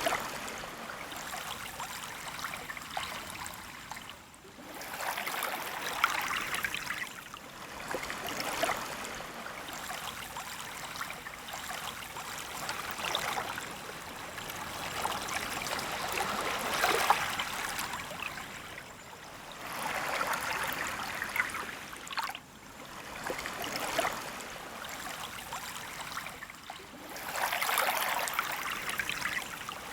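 Small, calm waves lapping onto a sandy beach, each wash swelling into a soft hiss and fading back every few seconds.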